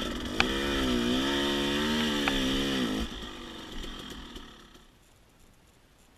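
Dirt bike engine running, its pitch rising and falling with the throttle, with two sharp clicks. The engine note stops abruptly about three seconds in, and a fading hiss dies away to quiet.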